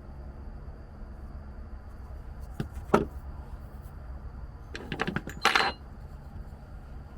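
Small hard parts being handled: two sharp clinks about three seconds in, then a quick rattling run of clinks a little after five seconds, over a steady low hum.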